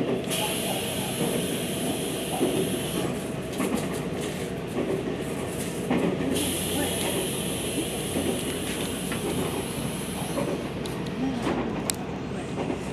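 Local passenger train running at speed, heard from inside the carriage: a steady rumble of wheels on the rails, with a high hiss that swells in twice for a few seconds each as the train runs close alongside trackside noise barriers.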